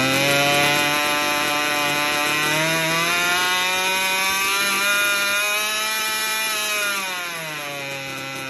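Small two-stroke gasoline model-helicopter engine running on a test stand under manual throttle: its revs rise right at the start and again about three seconds in, hold steady, then drop back toward a lower speed near the end.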